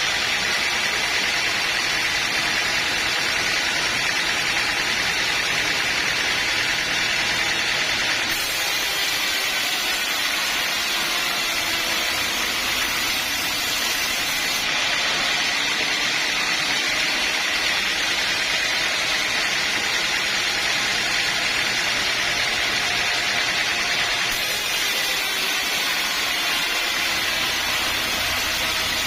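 Sawmill machinery running: a steady, even, high-pitched noise with no breaks or pauses.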